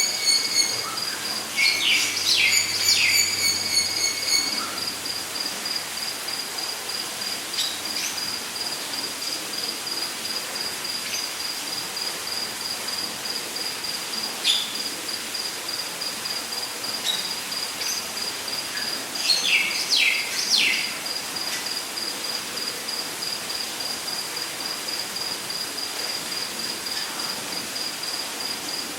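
Rainforest ambience: an insect trilling steadily in rapid, high-pitched pulses, with a second lower pulsed call that stops about four seconds in. A bird calls in short bursts of quick descending notes, about two seconds in and again about twenty seconds in.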